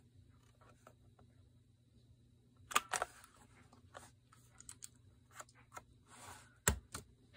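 Scattered light clicks and rustles of paper craft materials being handled on a worktable, with a sharper knock about two-thirds of the way through.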